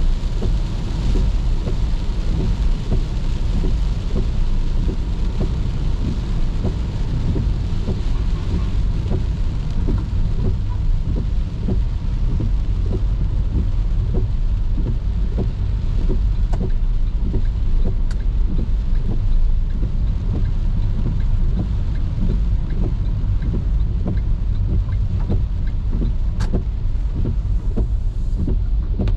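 Car driving in the rain: a steady low rumble of engine and tyres on wet road, with raindrops tapping irregularly and fast on the car.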